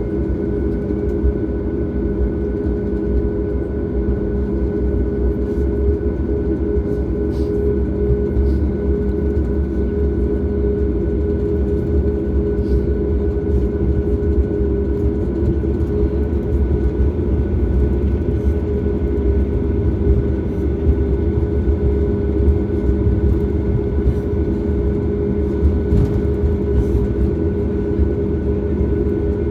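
Steady cabin rumble of a Boeing 737 MAX during departure, its CFM LEAP-1B engines running at high thrust, with a steady engine hum over the roar and a few faint cabin rattles.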